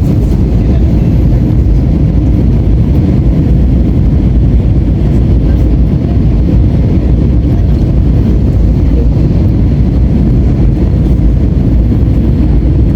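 Steady, loud low rumble of airliner cabin noise, engines and airflow, as the plane comes in to land.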